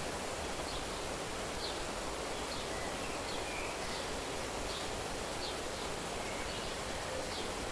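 Outdoor nature ambience: a steady hiss-like background with short, high calls from a small animal repeating about once a second.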